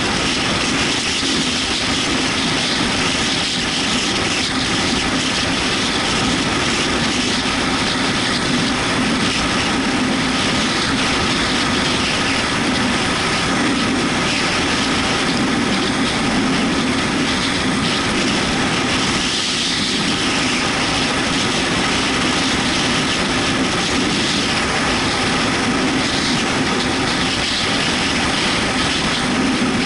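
Yamaha MT-125's single-cylinder engine running at a steady speed under a constant rush of wind and wet-road noise, as heard while riding the motorcycle in rain.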